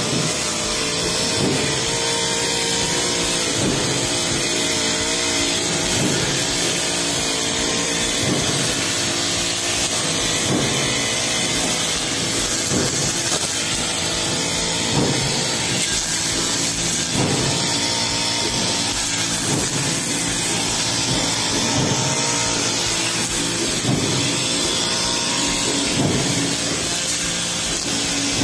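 Honda four-stroke brush cutter running at high speed with a metal blade, swung back and forth through tall grass, its note surging with each cutting sweep about every second and a half.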